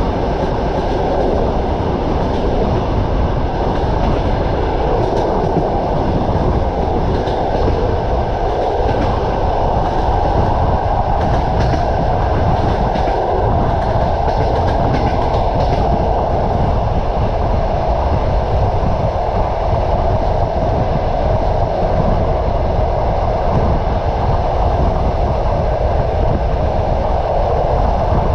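Train wheels clattering on the rails at running speed, heard from on board: a steady rumble with clicks of the rail joints, most noticeable around the middle.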